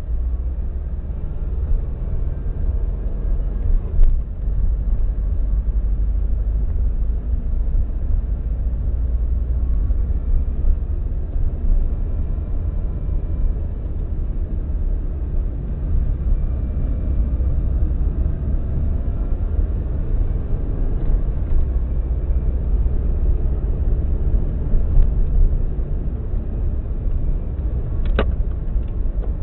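Subaru WRX's EJ205 turbocharged flat-four engine running with a misfire on cylinder 3, without ticking; the seller has been told it has a cracked valve. Two brief clicks, one a few seconds in and one near the end.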